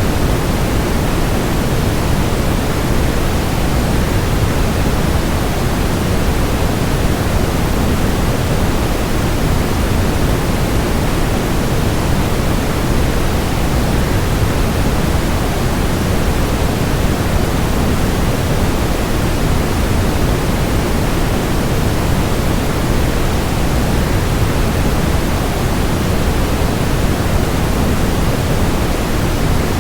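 Steady, even rushing noise of a waterfall blended with white noise, unchanging throughout, heaviest in the low end.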